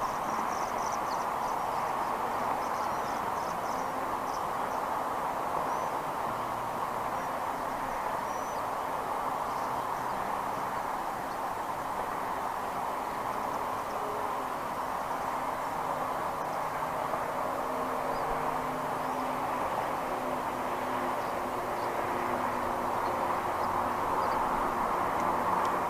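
Outdoor ambience: a steady rushing noise with a faint low drone that wavers in pitch, and faint high chirps of small birds in the first few seconds.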